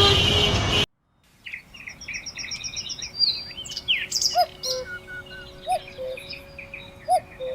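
Loud city traffic noise cuts off abruptly under a second in. After a moment of silence, several birds sing together: quick high chirps and trills, with a low whistled note repeating about every second and a half.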